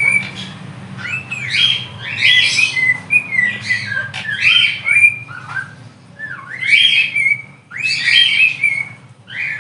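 Parrots calling: loud, harsh pitched calls that rise and fall, repeated in bouts every second or two, over a steady low hum.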